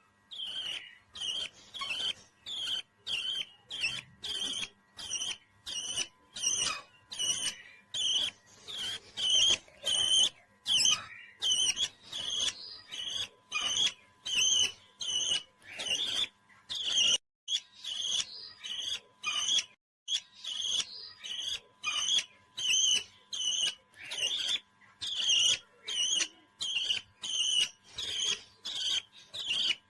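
A parrot chirping in short, high, evenly repeated calls, about two a second, for the whole stretch.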